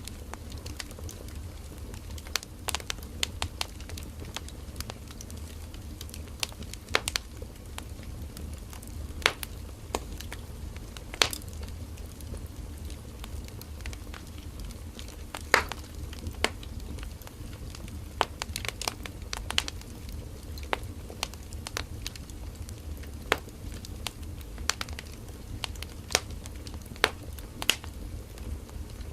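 Firewood burning in a campfire: steady low rumble and hiss of the flames with irregular sharp crackles and pops from the burning wood, a few of them louder.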